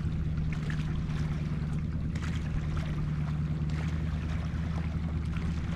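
Steady low hum of the kayak's drive under way, with faint water noise and a few light clicks.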